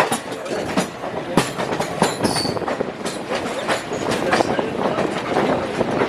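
Passenger train running, its wheels clattering over rail joints in a continuous rumble with irregular sharp clicks.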